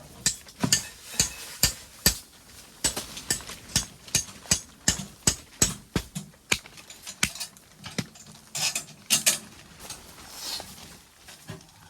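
Hammering: a steady run of sharp strikes, about two a second, then a couple of rougher scraping bursts near the end.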